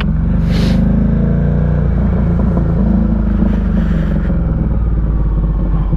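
Ducati Diavel 1260's V-twin engine running at a fairly steady engine speed while the motorcycle is ridden, with a short hiss about half a second in and again around four seconds.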